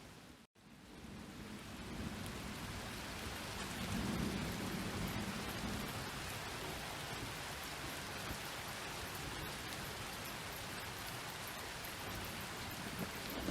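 Steady rain falling, with a low rumble of thunder swelling about four seconds in and again near the end. About half a second in, the sound cuts out briefly and then fades back up.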